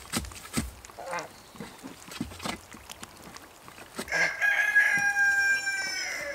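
A rooster crows once, a long held call starting about four seconds in and dropping slightly at the end. A few scattered knocks come before it.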